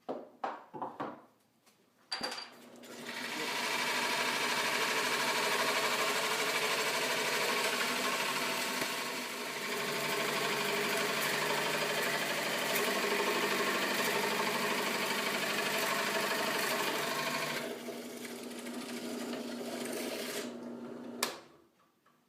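Drill press boring a 2 1/8-inch hole in 3/4-inch plywood: a few light knocks, then the motor starts about two seconds in and runs with a steady hum. It drops to a quieter run a few seconds before the end, then stops with a click.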